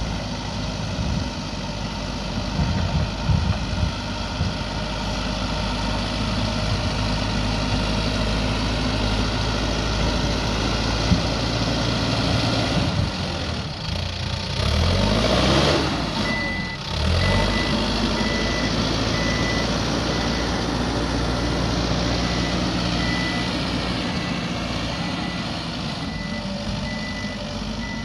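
Backhoe loader's diesel engine running steadily, revving up and dropping back about halfway through. After that its reversing alarm beeps steadily as the machine backs up.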